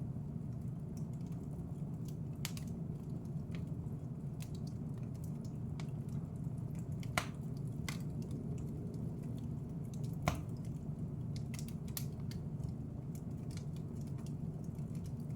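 Wood fire in a fireplace crackling: a steady low rumble of flames under scattered small crackles, with two louder pops about halfway through and a few seconds later.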